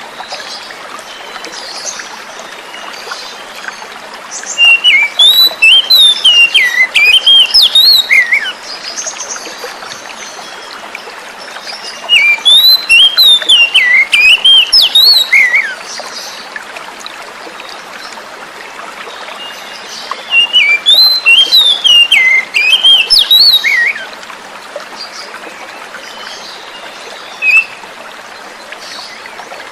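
Oriental magpie-robin (kacer) singing three bouts of quick, rising and falling phrases, each lasting about four seconds, with one short note near the end. Steady running water runs beneath the song.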